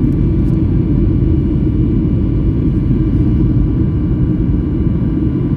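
Jet airliner's engines running steadily: a deep, even rumble with several faint steady whining tones above it.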